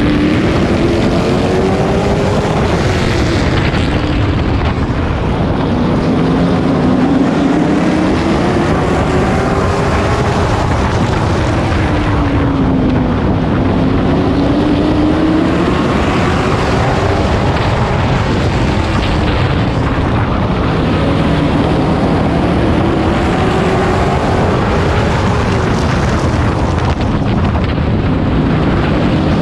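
Onboard sound of a Pro Truck race truck's engine at racing speed, rising in pitch as it accelerates and dropping as the driver lifts, in a cycle that repeats about every seven seconds, with wind rushing past the microphone.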